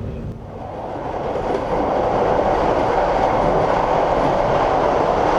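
A passenger train running on its rails, a steady rumbling noise that grows louder over the first couple of seconds and then holds level.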